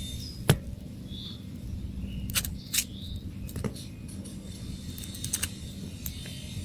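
Scattered sharp clicks and light metal taps from a bicycle being handled during a repair, over a low steady rumble. The loudest click comes about half a second in, and a quick cluster of clicks comes near the end.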